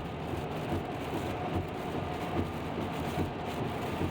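Steady road noise heard inside a moving car driving in the rain.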